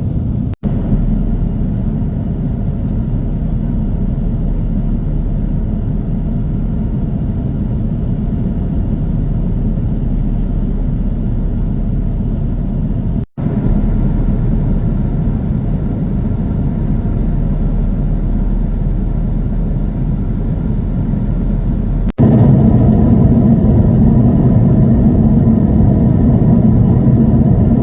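Steady low roar inside the cabin of an Airbus A330-300 airliner, from its jet engines and airflow. It comes in three stretches separated by abrupt cuts, and the last stretch is louder.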